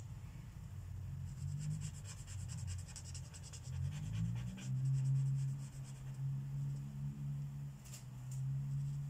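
Marker tip rubbing on paper in quick, repeated colouring strokes, most busy from about one to five seconds in, with a couple of light taps near the end.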